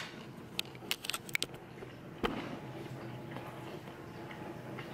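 Quiet chewing of a mouthful of baked oat scone: a few soft mouth clicks about a second in and one sharper knock a little after two seconds, over a faint steady hum.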